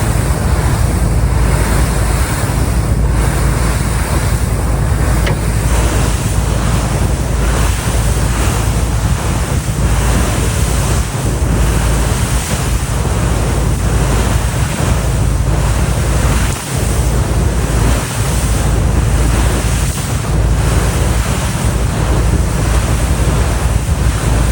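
Wind buffeting the microphone on a moving ferry, a loud, steady rush with gusty low rumble, over the wash of water past the boat.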